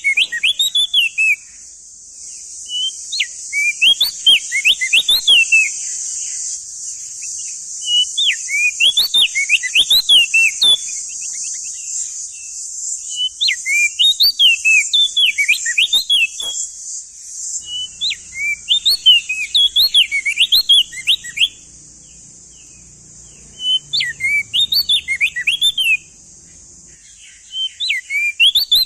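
Male crested dark-eye (opior jambul) singing loudly: phrases of quick whistled notes sweeping up and down, repeated every few seconds with short pauses between, over a steady high hiss.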